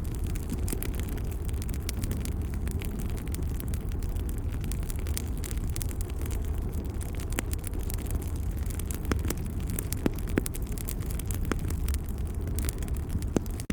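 Wood fire crackling: a steady low rumble of burning with scattered sharp pops and snaps throughout.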